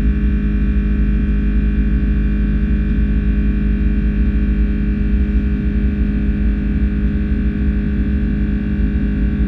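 Steady drone of an Airbus A330-300's Rolls-Royce Trent 700 engines and airflow heard inside the cabin: a low rumble with a steady hum and fixed higher tones, unchanging throughout.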